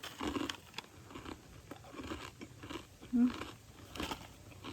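A person biting into and chewing crunchy food close to the microphone, in irregular crunches, with a brief closed-mouth 'mm' about three seconds in.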